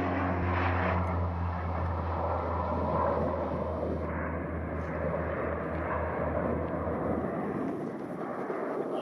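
Airliner's engines, a broad rushing noise over a steady low rumble; the rumble dies away about seven seconds in.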